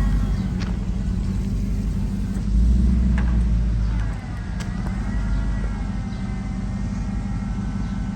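Bucket truck's engine idling with a steady low rumble that swells for a second or so about two and a half seconds in. A faint wavering whine sits above it, with a few sharp clicks.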